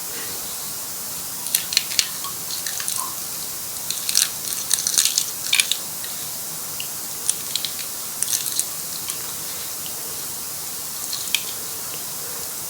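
Close-miked crisp crackling and crunching of fried martabak telur, in scattered clusters of sharp clicks over a steady hiss.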